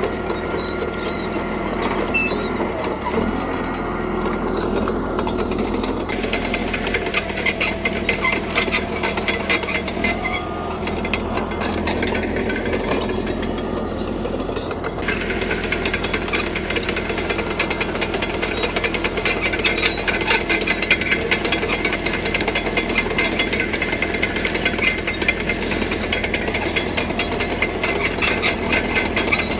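CAT D3K bulldozer's diesel engine running steadily under load, with a rapid metallic clatter from its steel tracks that comes in after a few seconds and grows stronger about halfway through.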